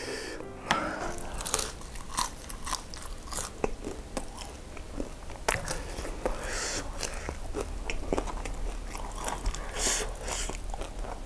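Close-miked chewing and crunching of crispy breaded fried chicken, with many sharp crackly bites.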